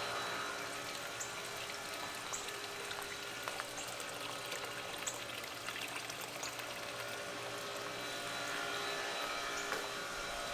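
Steady running and trickling water from a backyard pool and jacuzzi, with a steady hum underneath.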